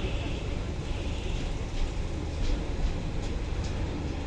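A train running over a railway bridge: a steady heavy rumble with the wheels clicking over rail joints every half second or so.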